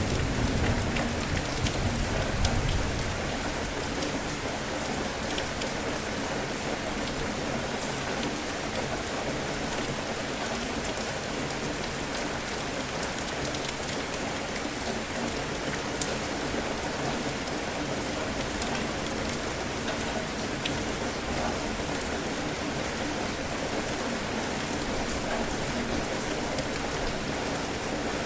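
Steady rain falling on a surface, with scattered drop ticks. A low thunder rumble dies away over the first few seconds.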